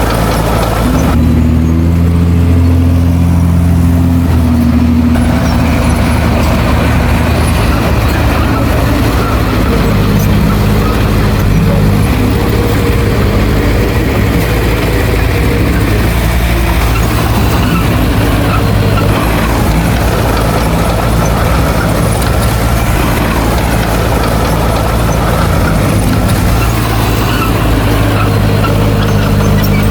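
Heavy diesel engine of earthmoving machinery running loudly and continuously. Its note shifts up and down in pitch several times as the machine works.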